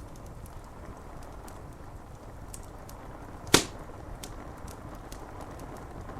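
Rain on window glass as a steady hiss, with scattered faint crackles from a wood fire and one loud, sharp pop from the fire about three and a half seconds in.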